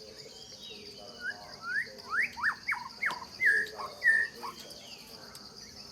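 A quick run of high chirps, each sliding sharply in pitch, about ten in three seconds, over a steady high insect drone.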